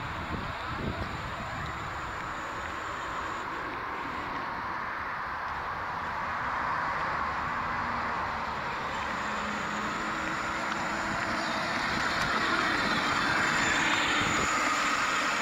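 Road traffic passing on a busy road, a steady rush of tyre and engine noise that swells louder in the second half.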